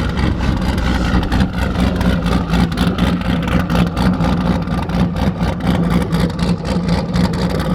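Car engine idling steadily, most likely the LS-swapped Nissan 300ZX's turbocharged V8, with many light ticks of rain starting to hit the car.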